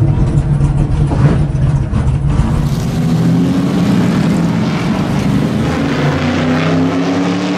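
Stock car V8 engine idling with a steady, deep rumble. About two seconds in, the sound changes from inside the car to beside it.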